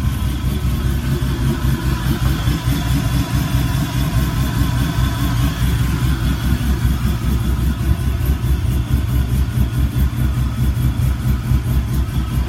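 Classic Chevy truck's 5.3-litre LS V8 idling steadily, a deep exhaust rumble through Jones Max Flow mufflers fitted to make it quieter than straight-through race mufflers.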